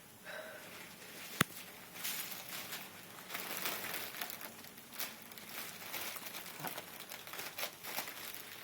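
Helium balloon being handled and squeezed: crinkling and rustling, with one sharp click about one and a half seconds in, as the balloon is opened to breathe in the helium.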